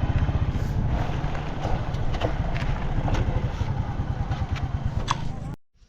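Motorcycle engine running steadily while riding, with scattered clicks and rattles; it cuts off suddenly near the end.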